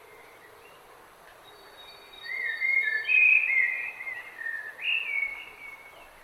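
A songbird singing a warbling phrase of several gliding notes, starting about two seconds in and lasting about four seconds, over a faint steady hiss of outdoor background.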